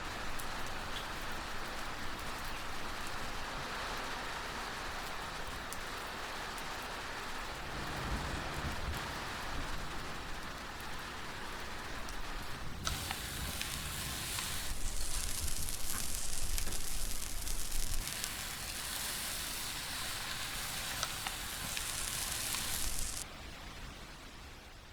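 Steady rain falling, an even hiss, turning brighter and louder about halfway through with a few sudden shifts in level.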